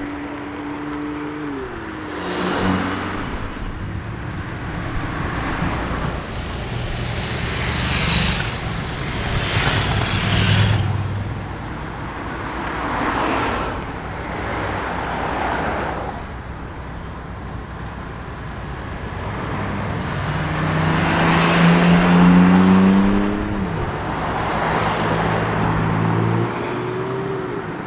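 Modified cars passing one after another, engines pulling and revving. The loudest pass is about 22 s in: the engine note rises, then drops sharply at a gear change or a lift off the throttle.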